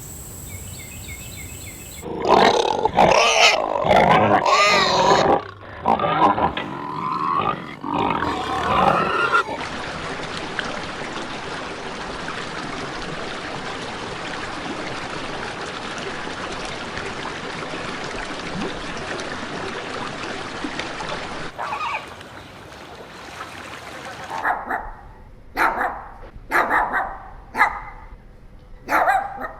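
Animal calls in three stretches: a few seconds of loud, pitched calls, then a steady hissing noise for about twelve seconds, then a run of short, separate calls near the end.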